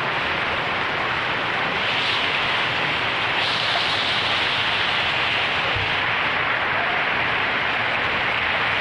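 Heavy rain mixed with small hail pelting down, a dense steady patter that swells a little about two seconds in and again a second or so later.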